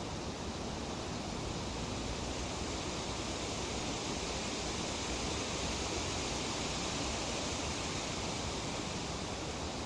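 Tree leaves rustling in a light breeze: a steady, even hiss that swells slightly in the middle.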